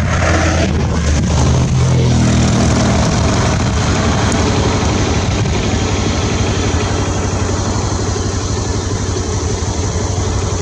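A vehicle engine running, revving up briefly between about one and three seconds in, then settling to a steady idle.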